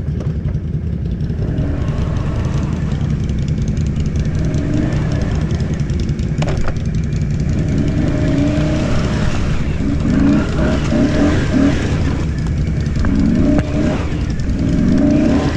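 ATV engine running steadily, revved up and back down several times in the second half. A single sharp knock about six seconds in.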